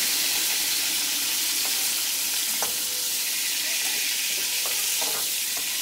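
Cauliflower florets frying in hot mustard oil in a metal kadai, a steady sizzle. A few light clicks of a metal spatula against the pan come as the florets are lifted out.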